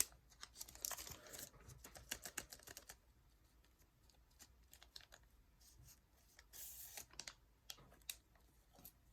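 Faint ticks and rustles of Yu-Gi-Oh! trading cards being handled and flipped, thickest in the first three seconds and again around seven seconds in.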